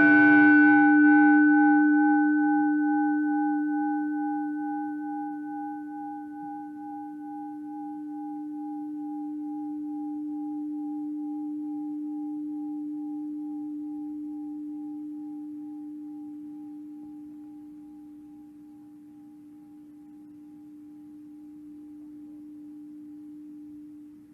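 A struck bell ringing out and slowly dying away: one low steady tone with higher overtones that waver and fade first, the sound swelling and ebbing in slow waves before it fades out near the end.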